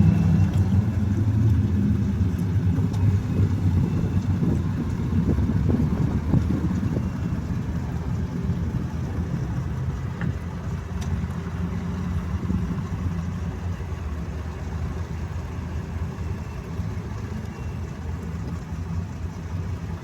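Jeep Grand Cherokee engine idling steadily, a low hum that slowly gets quieter.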